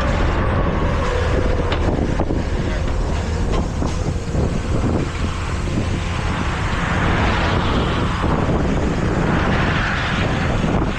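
Heavy tow truck's diesel engine running steadily, with a few faint metallic clanks in the first few seconds.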